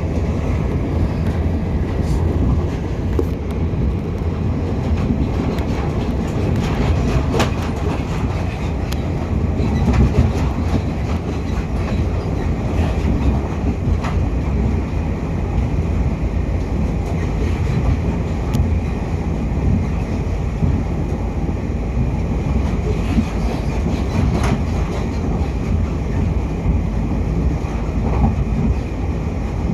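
Electric multiple-unit passenger train running at speed, heard from inside the carriage: a steady low rumble of wheels on rail with occasional clicks over rail joints.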